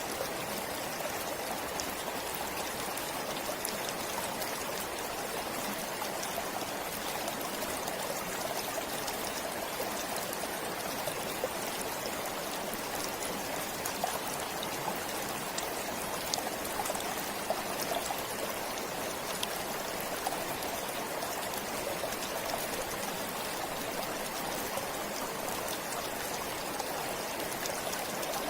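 Forest stream flowing steadily, the water babbling with small scattered splashes.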